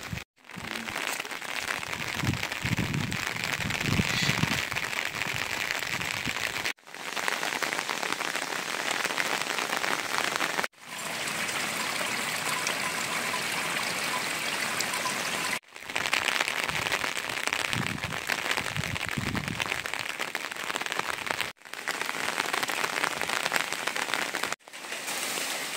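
Steady rain falling, an even hiss that cuts out briefly about six times, with a few low thuds in two places.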